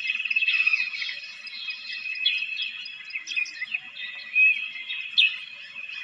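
Several small birds chirping and singing, with short high chirps and quick downward-sweeping calls over a steady high-pitched background chorus; the loudest calls come about four and five seconds in.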